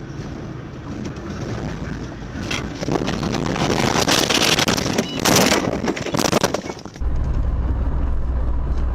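Car interior road and wind noise, growing into a loud, crackling rush from about three seconds in, then changing abruptly to a steady low hum about seven seconds in.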